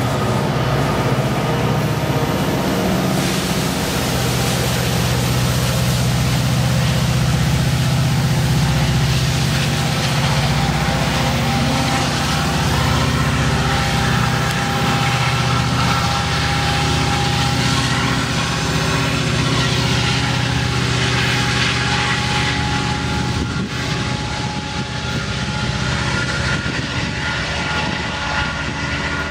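Two diesel-electric locomotives working as rear-end distributed power (DPUs) on a loaded ore train, running hard as they shove it up a grade: a loud, steady engine drone with several steady higher tones above it.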